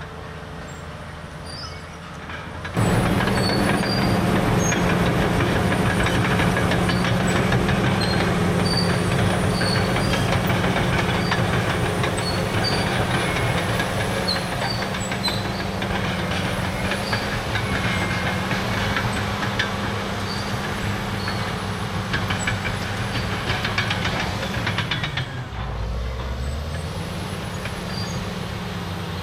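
CAT D6R dozer's C9 diesel engine and steel tracks working, with a steady engine drone and track clatter. The engine comes up sharply in loudness about three seconds in and stays under load. Near the end its note dips briefly and recovers.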